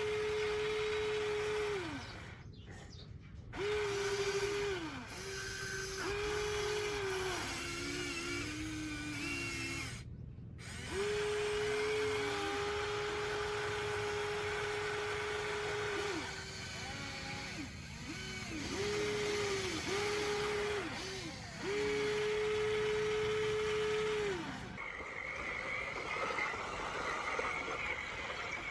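Small electric motor of a radio-controlled construction model whining in repeated bursts of one to five seconds, its pitch sliding up as it spins up and down as it stops. A higher-pitched whine takes over in the last few seconds.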